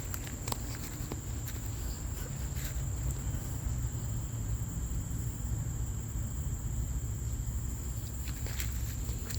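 Outdoor streamside ambience: a steady, high-pitched insect drone, over a low rumble with a few light clicks in the first second and again near the end.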